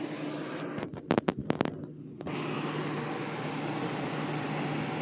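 Steady hiss with a low hum underneath. About a second in, the hiss drops away briefly and a quick run of sharp clicks sounds before the steady noise returns.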